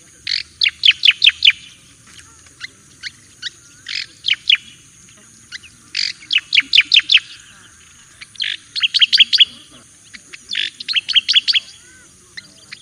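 Striated grassbird (cica koreng jawa) singing: short phrases of rapid, sharp chirping notes, several notes to a phrase, repeated every second or two.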